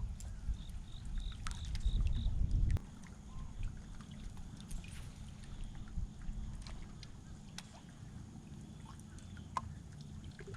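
Wind buffeting the microphone for the first few seconds, then quieter water noise around the boat with scattered small clicks. A faint run of short high chirps comes about a second in.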